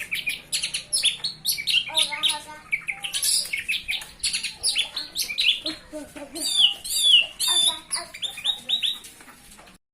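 Orange-headed thrush singing a fast, varied song of chirps and quick notes, with a few gliding whistles, until it stops abruptly near the end.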